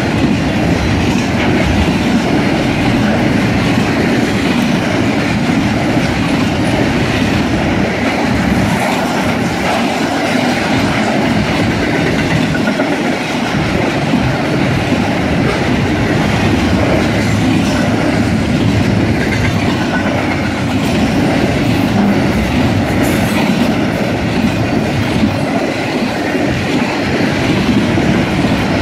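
Intermodal freight train's spine cars, loaded with highway trailers, rolling past: a steady rumble and clatter of steel wheels on rail.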